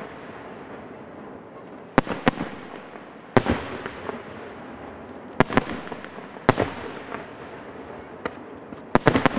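Aerial fireworks shells bursting: about nine sharp bangs at irregular intervals, some in quick pairs and a quick cluster of three near the end, each trailing off in a fading rumble.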